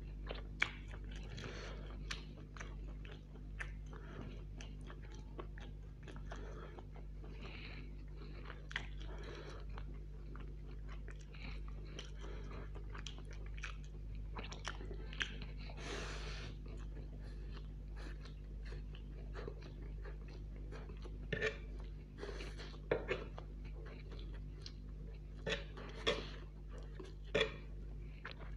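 Close-miked chewing of a mouthful of chow mein noodles: irregular wet smacks and mouth clicks, with a steady low hum underneath.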